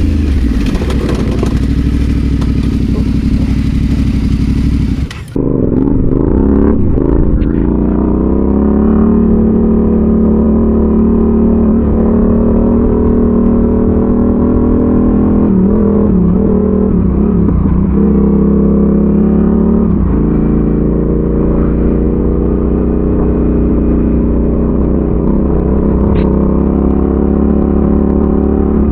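Adventure motorcycle engine running off road, its pitch rising and falling gently with the throttle. The sound breaks off briefly about five seconds in.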